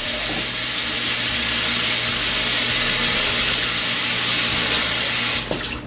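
Sink tap running steadily while hands are rinsed under the stream, shut off near the end.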